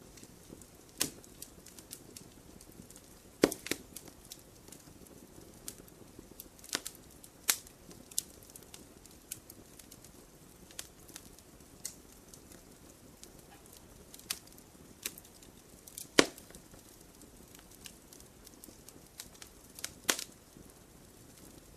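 Wood campfire crackling: irregular sharp pops and snaps over a soft low hiss, a few of them much louder, such as one about three and a half seconds in and one near the middle.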